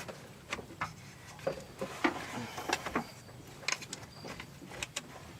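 Irregular clicks, knocks and short scrapes of metal parts being handled as a replacement A/C condenser fan motor is worked upward past the radiator, its shaft catching on a radiator pipe.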